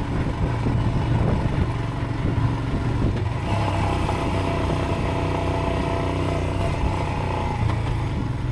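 Motorcycle engine running steadily under way, picked up close by a helmet chin-mounted camera. From about three and a half seconds in, a higher engine tone joins for a few seconds, then drops away.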